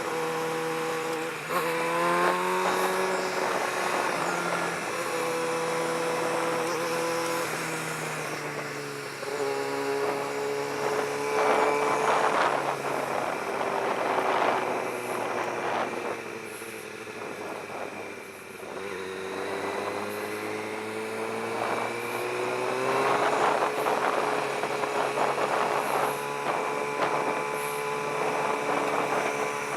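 2013 Kawasaki ZX-6R 636's inline-four engine running while ridden, its pitch rising as it accelerates about two seconds in, again around nine seconds, and once more in the second half, falling away in between.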